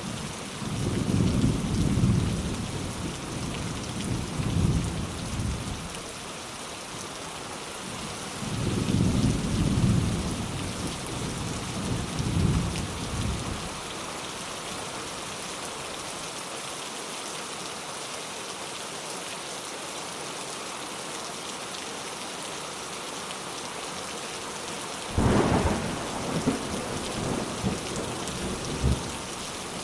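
Steady rain falling, with three peals of thunder. Low rolling rumbles come about a second in and again about eight seconds in, and a sharper clap comes near the end, rumbling for a few seconds.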